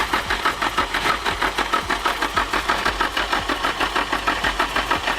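Nissan SR20DET engine turning over on its starter motor with the injectors unplugged, so it cranks steadily without firing, at about five or six pulses a second. The engine is being cranked to build oil pressure and check the oil feed to the cams.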